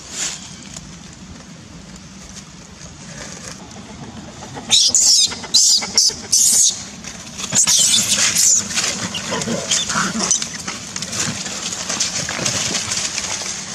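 Baby monkey screaming: a run of about five short, shrill bursts starting about five seconds in, then more high-pitched cries over steady background noise.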